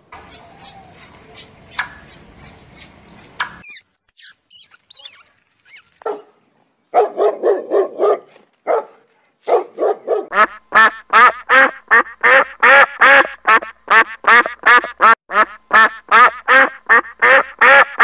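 Animal calls. It opens with a quick run of high, falling chirps, about three a second. About ten seconds in, a long run of short calls starts, evenly spaced at about three a second.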